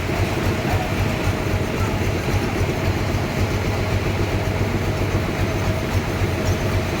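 Sawmill machinery running steadily, with a dense, fast low rumble and a faint steady whine above it.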